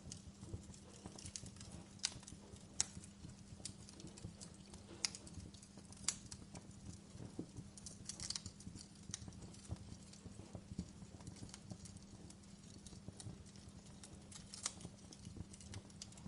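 Fire crackling: irregular sharp pops and snaps, a few louder than the rest, over a low steady hum.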